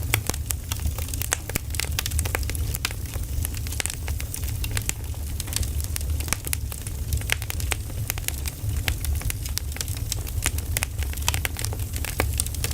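Wood fire crackling: many irregular sharp snaps and pops over a steady low rumble.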